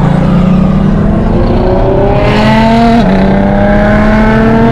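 Car engine pulling hard under acceleration, its note rising steadily. About three seconds in the pitch drops sharply at a gear change, then it climbs again in the next gear.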